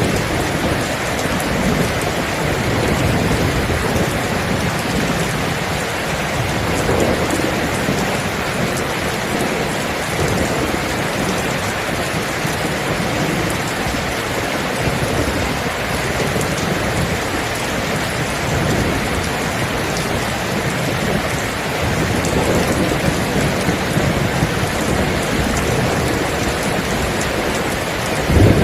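Steady heavy rain pouring down, with low rumbles of thunder swelling now and then.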